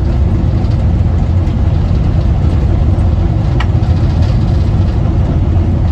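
Steady low rumble of a train on the move, heard from aboard the railway car, with one brief click about halfway through.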